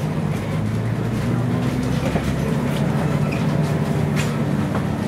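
Inside a Scania CN113CLL city bus under way: its Scania DSC 11.71 six-cylinder diesel runs with a steady low drone, joined by faint clicks and rattles from the bus body.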